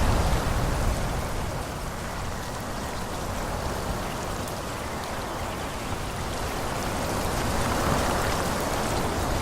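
Wind gusting through forest trees: a steady rushing of moving leaves and branches with a low rumble, easing a second or two in and building again near the end.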